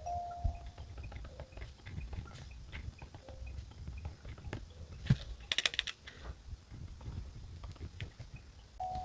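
Pen writing on paper: soft scratches and small taps, with a short, brighter scratchy rustle about five and a half seconds in.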